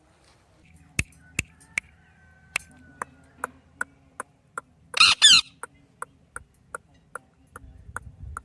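Pet parrot giving a loud, harsh squawk in two quick parts about five seconds in. A steady run of sharp ticks, about two and a half a second, goes on throughout.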